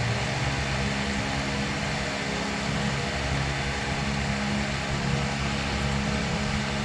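Steady mechanical hum with a broad hiss and a few constant low tones, as from a machine running at an even speed.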